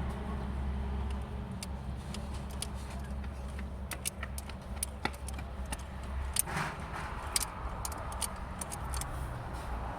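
Steady low motor-vehicle rumble with many light, sharp metallic clicks and taps scattered over it, like hand tools working on an engine. The rumble eases a little after about six seconds.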